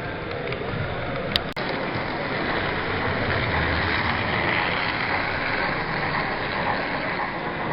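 Steady background noise of a model railway exhibition hall, with model trains running on layout track. About a second and a half in there is one sharp click.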